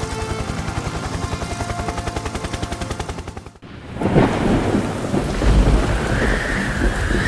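Cartoon thunderstorm sound effect: a fast, even rattling that cuts off about three and a half seconds in, then heavy rain with rumbling thunder.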